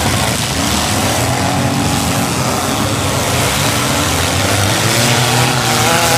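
Several four-cylinder demolition derby cars' engines running and revving at once, a dense, steady din, with a few wavering higher tones near the end.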